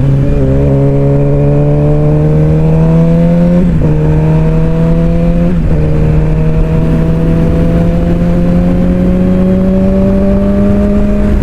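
Suzuki GSX-R600 inline-four engine pulling under acceleration, its pitch climbing steadily and dropping sharply at upshifts right at the start and about four and five and a half seconds in, then a long slow climb, over low wind rumble.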